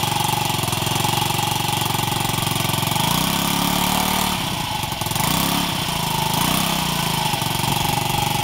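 Honda Ruckus scooter's 50cc four-stroke single idling through an NR Magic aftermarket exhaust, with short throttle blips about three, five and six and a half seconds in.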